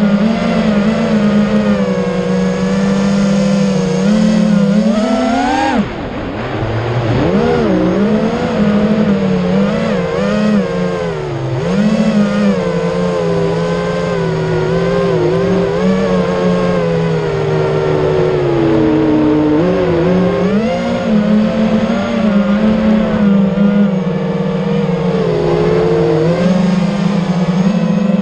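FPV quadcopter's electric motors whining, their pitch rising and falling with the throttle: a sharp climb about five to six seconds in, then a sudden drop and a wavering tone for the rest.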